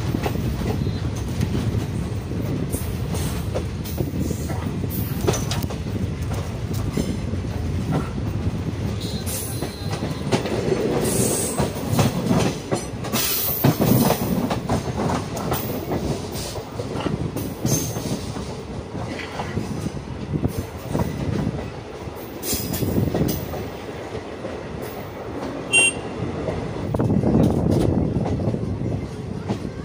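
Passenger train running, with a steady low rumble and wheels clattering over rail joints, and a brief high wheel squeal about 26 seconds in.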